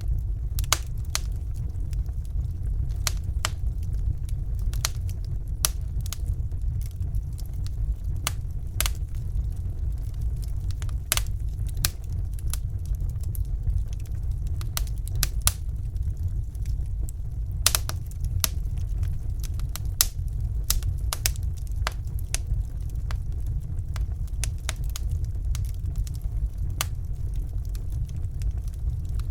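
Wood fire burning in a fireplace: irregular sharp crackles and pops over a steady low rumble of the flames, with one louder pop a little past the middle.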